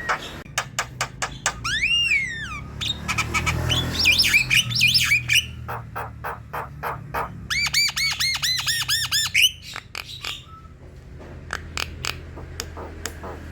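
Javan myna singing a varied song: many sharp clicks, a long arching whistle, harsh chattering notes, and past the middle a fast run of about a dozen repeated arched whistles. A steady low hum sits underneath.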